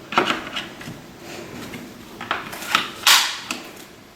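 Hard plastic snack-tray adapters being handled and pushed into a stroller frame: a series of short clicks and knocks, with a longer, louder scrape about three seconds in.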